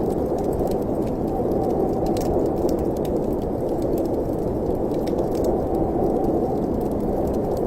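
Fireplace ambience: a steady low rushing like wind in the chimney, with scattered small crackles and pops from the fire.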